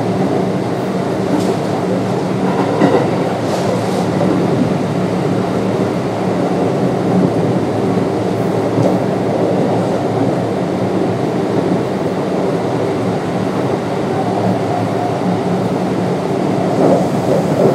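Kintetsu 3200 series electric train with Mitsubishi GTO-VVVF control running between stations: a steady rumble of wheels on the rails with a low, even hum.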